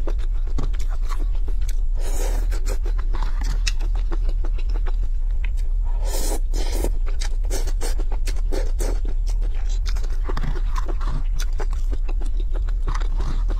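Close-miked eating: wet chewing of konjac strips in thick sesame-paste sauce, with a white plastic fork clicking and scraping against a plastic bowl. There are louder noisy bursts about two and six seconds in as strips go into the mouth, over a steady low hum.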